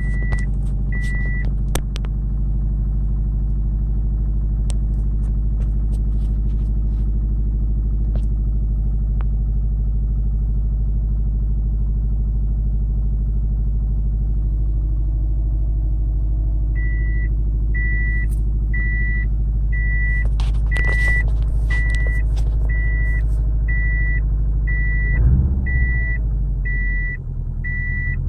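A vehicle engine idling steadily with a deep, even drone, which the owner suspects has an exhaust leak. A high electronic chime from the vehicle beeps twice at the start, then repeats about once a second through the second half. The engine note swells briefly and changes near the end.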